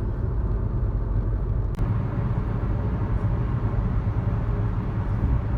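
Steady low rumble of a car's engine and tyres heard from inside the cabin while driving, with one faint click just under two seconds in.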